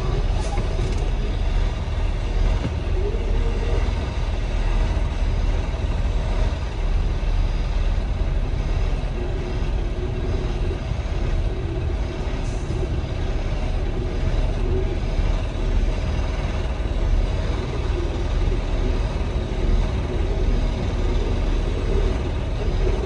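Tractor-trailer (semi-truck) engine running with a steady low rumble, heard from inside the cab.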